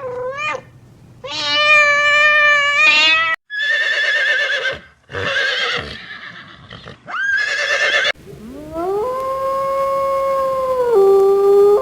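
A cat meowing, then a horse whinnying with a quavering call, then a canine howl that rises and holds one long steady note, dropping lower near the end.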